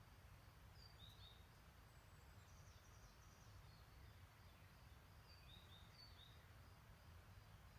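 Faint outdoor ambience: distant small birds giving short, high chirps every second or so over a low, steady rumble.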